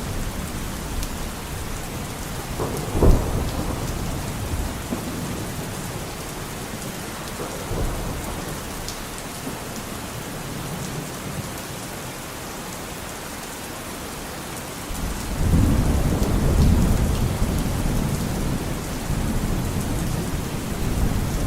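Steady rain falling through a thunderstorm. A sharp crack of thunder comes about three seconds in, and a long low rumble of thunder rolls in from about fifteen seconds.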